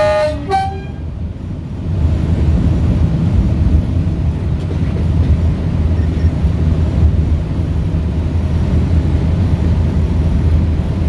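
Diesel locomotive horn giving two short notes, the second higher, followed by the locomotive's diesel engine running with a steady low drone that gets louder about two seconds in.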